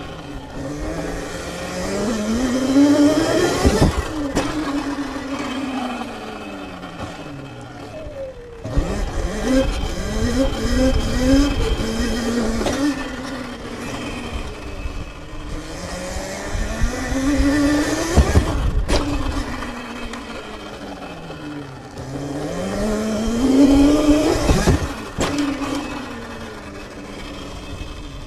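Sur-Ron electric dirt bike's motor whining, rising in pitch as it speeds up and falling as it slows, three long times, with a run of short throttle blips in the middle. A few sharp knocks are mixed in.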